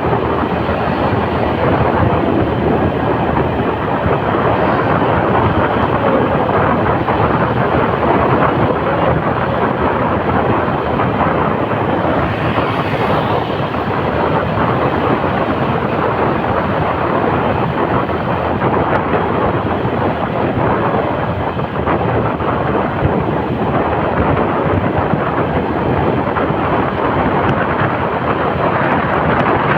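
Motorcycle riding at speed: a steady rush of wind over the microphone mixed with engine and road noise.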